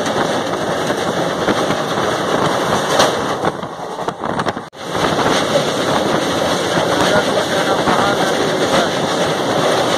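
Wind rushing and buffeting the microphone at an open window of a moving express train, with the running noise of the coach under it. It dips and drops out for a moment about halfway through, then carries on.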